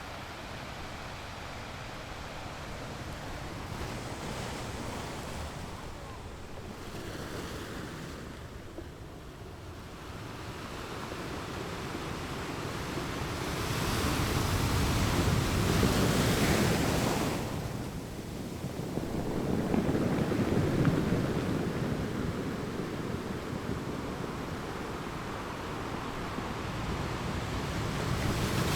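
Ocean waves breaking on a beach: a steady wash of surf that swells and falls, with two bigger waves breaking about halfway through.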